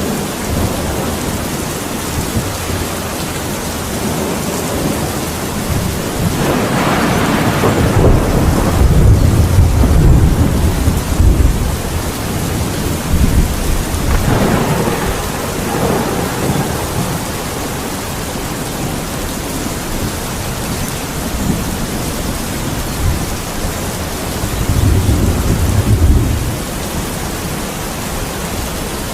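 Steady heavy rain with rolling thunder: a long rumble swelling about a quarter of the way in and peaking near the middle, a weaker one soon after, and another shorter rumble near the end.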